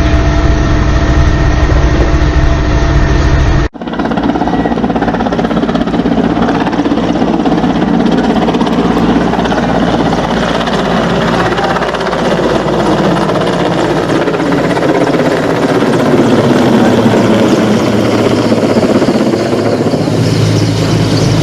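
Helicopter engine and rotor running steadily. About four seconds in, the sound changes abruptly to a noisier, more spread-out drone.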